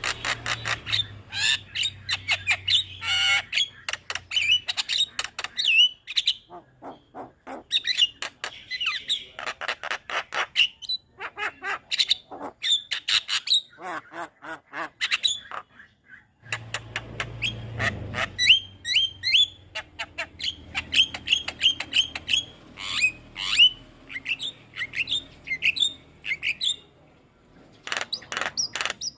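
Javan myna singing a fast, chattering run of squawks, clicks and slurred whistles, broken by a few brief pauses.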